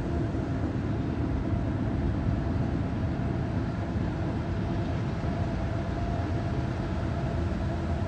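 A train rolling past, a steady rumble with a faint constant tone above it.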